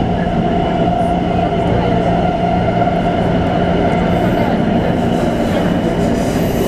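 Train running: a steady rumble with a low hum and a higher steady whine, even in loudness throughout.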